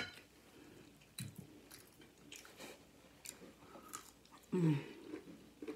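Close-miked chewing and biting of food, with small wet mouth clicks scattered through. A short vocal sound comes about a second in, and a falling one about four and a half seconds in.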